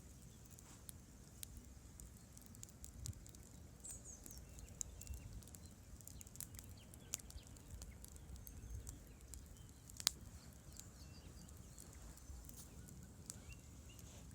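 Campfire crackling: scattered small pops and snaps, with one sharp, much louder pop about ten seconds in, over a low steady rumble.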